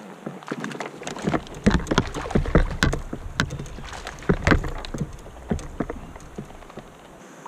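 Irregular knocks and handling sounds on a fishing kayak, with a low rumble. They come thickest between about one and five seconds in and die away near the end.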